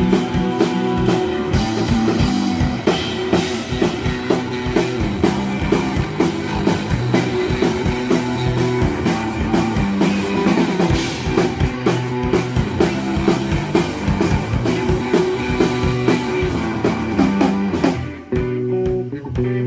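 Live rock band playing an instrumental passage: electric guitar over a drum kit with steady drum hits. Near the end the drums drop out, leaving the guitar alone.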